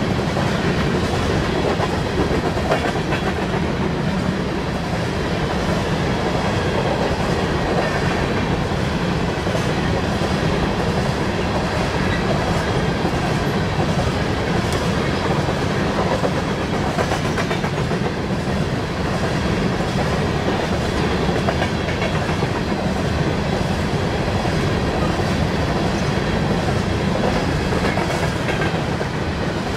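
Loaded coal hopper cars of a long freight train rolling past: a steady rumble of steel wheels on the rails, with a repeating wheel clatter.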